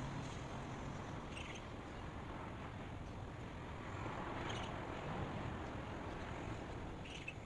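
Steady outdoor background hiss and low rumble, with three short high bird chirps spaced a few seconds apart.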